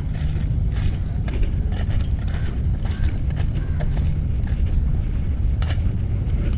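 Footsteps and scattered small clicks and rustles over a steady low rumble.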